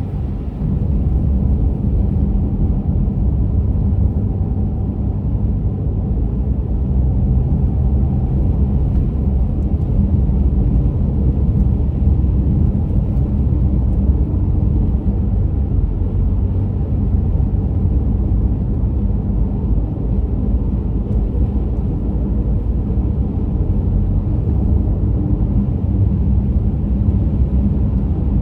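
A car driving at steady speed: a constant low rumble of road and engine noise.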